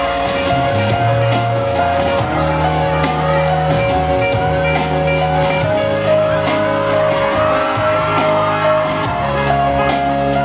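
Instrumental pop-ballad backing music with a steady beat and held sustained notes.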